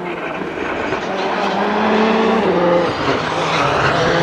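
Rally car engine approaching at speed on a special stage. Its note climbs, drops back once about halfway through as it changes gear, then holds steady while growing louder as the car nears.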